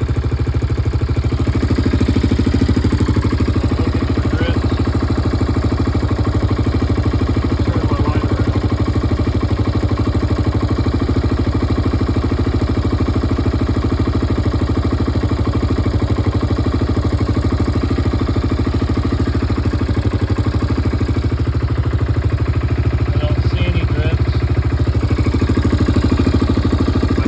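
1998 Yamaha Grizzly 600 ATV's single-cylinder four-stroke engine idling steadily at a low idle, turned down to its warmed-up setting.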